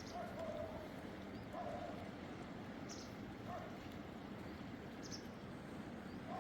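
Steady rushing of a flowing river, with a few short animal calls and several brief high chirps of a small bird over it.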